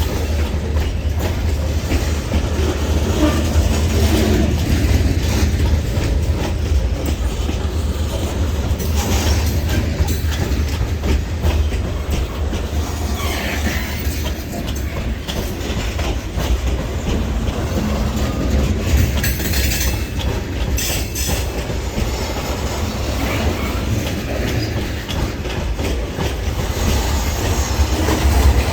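Freight train rolling past, with a steady heavy rumble and wheels clicking over the rail joints.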